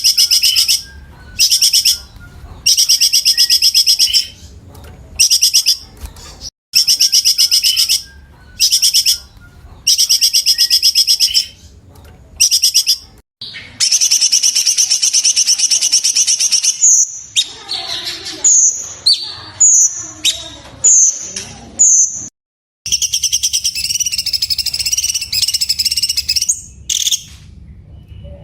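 Cucak cungkok singing: loud, rapid trills in bursts of one to two seconds with short pauses between them. About halfway through comes a run of short separate falling notes, roughly one a second, and near the end one long warbling trill.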